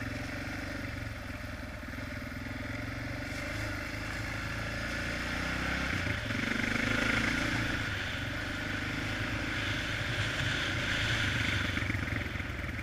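Honda XR650R single-cylinder four-stroke engine running as the dirt bike is ridden, with a change in engine note about halfway through, after which it runs a little louder.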